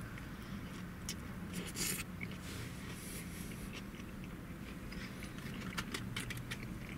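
A man chewing a big mouthful of burger, with faint wet mouth clicks over a steady low hum in a car cabin.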